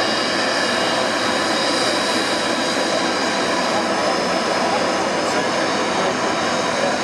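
Jet airliner engines running steadily: a loud continuous rush with several high, steady whining tones over it.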